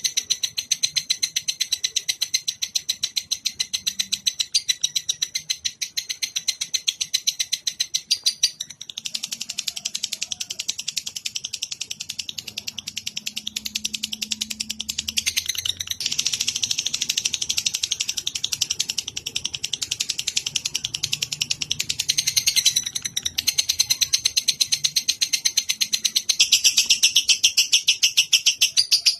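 A songbird's rapid chattering trill of many notes a second, high-pitched and unbroken, shifting its pattern a few times.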